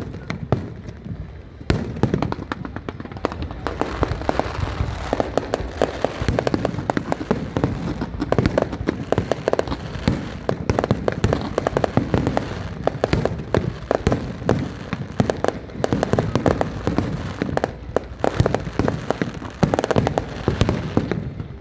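Fireworks display: a dense, continuous barrage of bangs and crackling, many bursts a second, getting busier about two seconds in.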